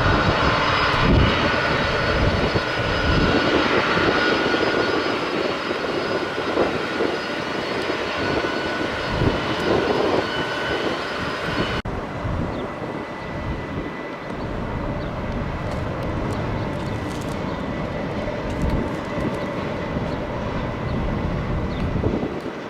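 Airplane engines running, a steady whine over a rumbling roar. About twelve seconds in the sound changes abruptly to a slightly quieter, hissier engine noise with a single steady tone.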